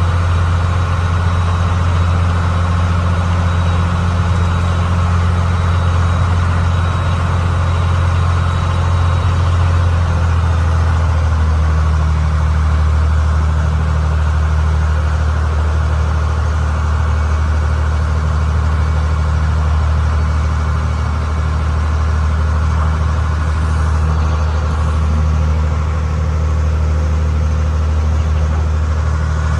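Passenger ferry boat's engine running steadily with a deep, even hum; its tone shifts slightly about ten seconds in.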